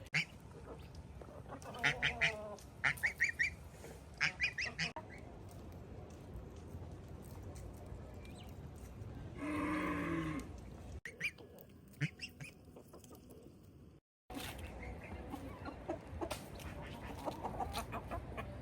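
Geese honking in quick runs of short calls, twice in the first few seconds, with one longer call near the middle.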